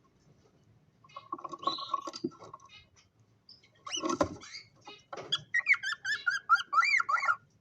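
Cockatiels chirping and calling. There is a burst of chatter about a second in and another around four seconds. Near the end comes a quick run of short, rising-and-falling whistled chirps.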